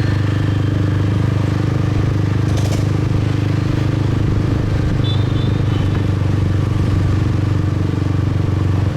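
A 155 cc motorcycle engine running at a steady speed while being ridden, a constant low drone that neither rises nor falls.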